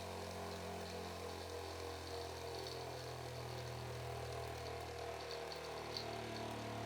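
Restored TRADE THREE-F MARK D8800 bench grinder running steadily with no load, its small electric motor giving a steady hum.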